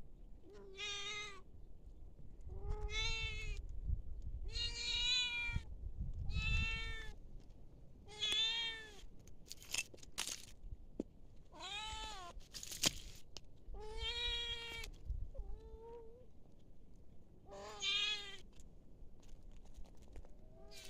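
A cat meowing repeatedly, about eight drawn-out meows spaced a second or two apart, with a few sharp clicks in between.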